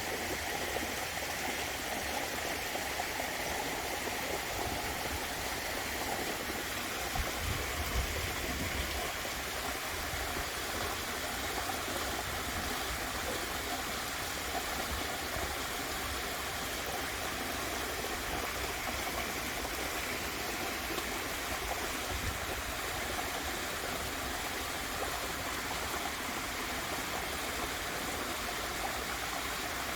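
Steady rushing of a garden waterfall and its stream, with a brief low rumble about seven seconds in.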